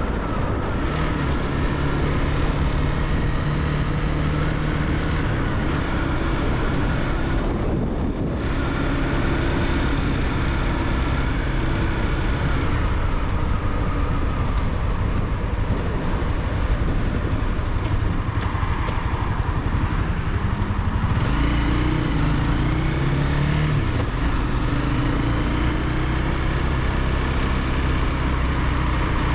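Honda CBR300R's single-cylinder engine running under way, with steady road and wind noise; about two-thirds of the way through, the engine note climbs as the bike accelerates.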